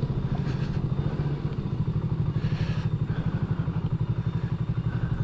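2023 BSA Gold Star's 652 cc single-cylinder engine running steadily at an even pitch, with a fast, regular pulse of firing beats.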